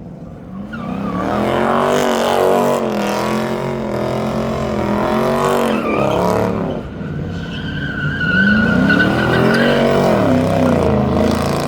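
Car engine at high revs, its pitch rising and falling repeatedly as the throttle is worked, while the car slides with its tyres spinning. A high tyre squeal joins in for a couple of seconds in the second half.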